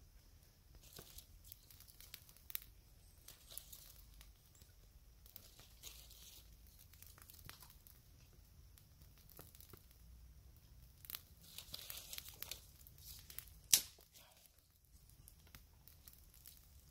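Faint crinkling, tearing and small snapping sounds of tinder and kindling being handled to light a campfire, with one sharp crack about three-quarters of the way through.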